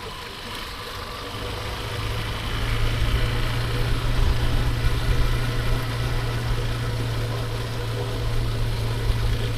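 Motorbike engine running at a steady speed, its low hum coming up about a second and a half in and then holding even.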